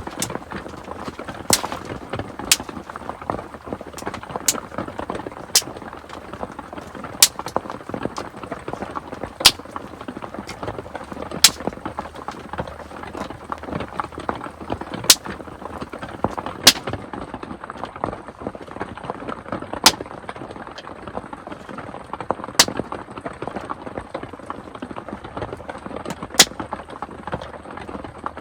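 Wood fire in a fireplace crackling steadily, with a sharp loud pop every second or two.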